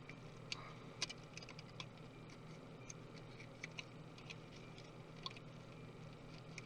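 Faint, irregular light clicks and ticks of small tools and laptop parts being handled during disassembly, the sharpest about a second in, over a steady low hum.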